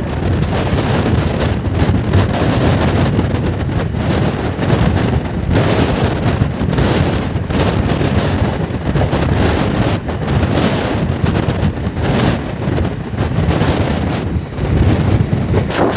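Passenger train running at speed, its steady rumble almost buried by heavy wind buffeting the microphone, which rises and falls in uneven gusts.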